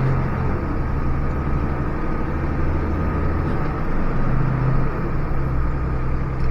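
Fire truck engine running under way with road and cab noise, heard from inside the cab; a steady low hum.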